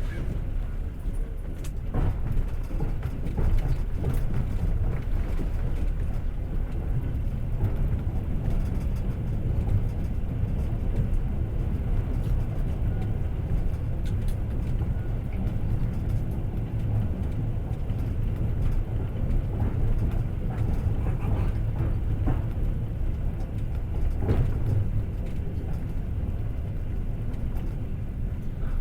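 Passenger train running at speed: the steady low rumble of wheels on the rails, with a few sharp clacks of the wheels over rail joints.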